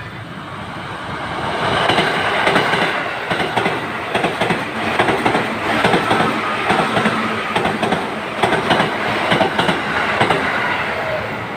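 A train passing close by, its wheels clacking over the rail joints; the sound builds over the first two seconds and eases off near the end.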